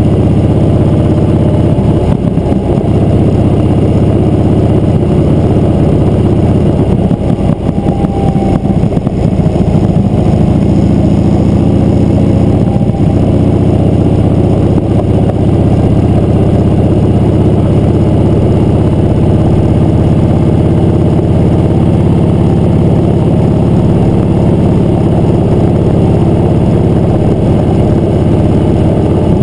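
Motorcycle engine running steadily while riding, loud and even throughout.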